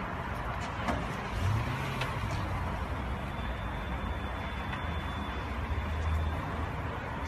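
Steady low rumble of car engines running, with a couple of light knocks about one and two seconds in.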